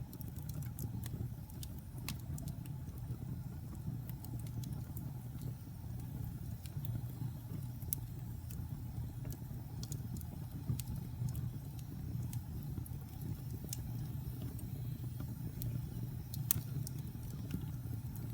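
Fire burning in a fireplace: a steady low rumble with scattered sharp crackles and pops, a few louder pops standing out.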